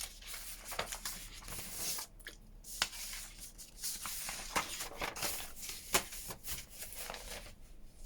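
Sheets of craft paper rustling and sliding as they are handled, with a few sharp taps.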